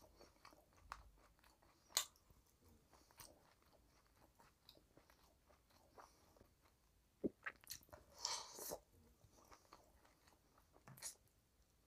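Close-miked eating sounds of a person chewing rice and chicken curry: quiet chewing with scattered short wet mouth clicks. A louder sharp click comes about two seconds in, a cluster of louder ones around seven to nine seconds, and another near the end.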